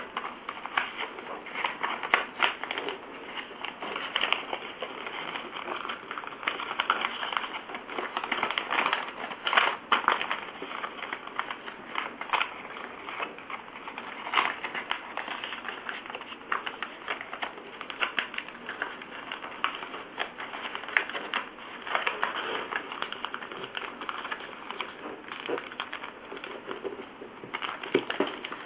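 A sheet of paper being handled, folded and creased: irregular rustling with frequent small crackles and clicks.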